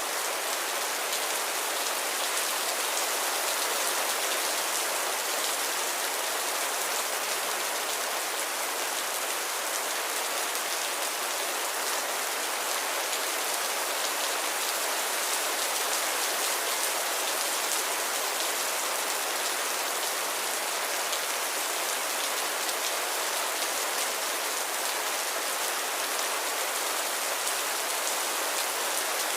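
Gentle, steady rain falling, with many fine drops pattering on surfaces and no thunder.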